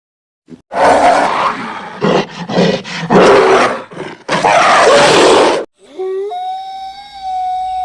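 A large animal roaring in several loud, rough blasts over about five seconds, followed by a steady high-pitched wail that holds one pitch.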